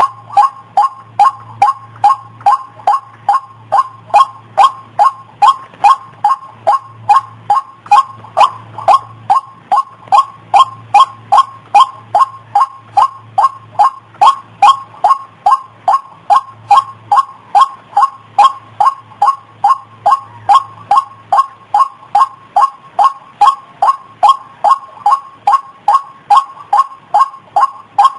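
White-breasted waterhen (ruak-ruak) call played as a bird lure: short two-note calls repeating evenly, about two and a half a second, without a break.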